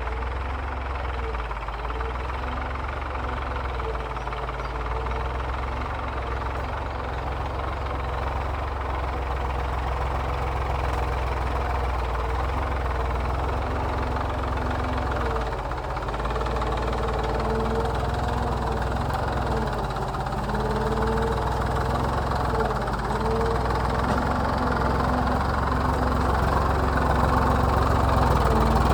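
Massey Ferguson tractor engine running steadily under ploughing load, its pitch wavering slightly and growing gradually louder.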